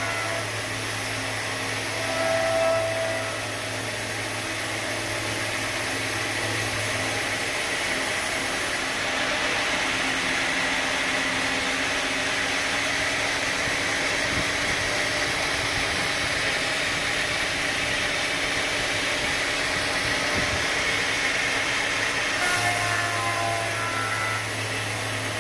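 Sawmill machinery running with a steady noise. A low hum drops away about seven seconds in and comes back near the end.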